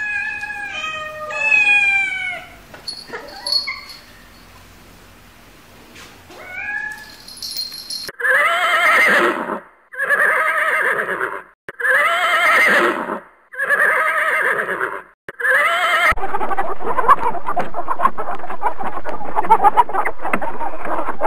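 A cat meowing a few times, its calls falling in pitch. Then horses whinnying: four long calls a second or so apart. About 16 seconds in it changes to a dense, busy clucking of chickens.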